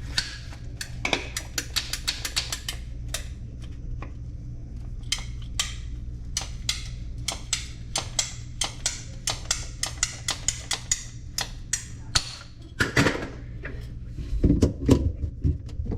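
A quick run of sharp clicks and light taps from hand work under a kitchen sink, several a second for about twelve seconds. A few louder knocks and rattles follow near the end.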